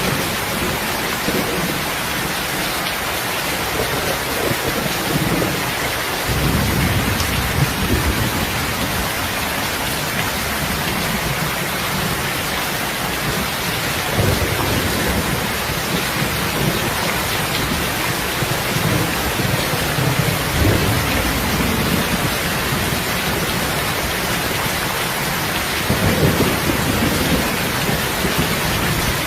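Steady rain falling, with low rumbles swelling up three times: about six seconds in, about fourteen seconds in, and near the end.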